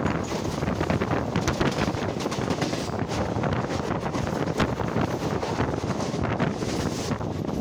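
Wind buffeting a microphone held out of a passenger train coach running at speed, over the steady rumble of the train with irregular knocks and clatter.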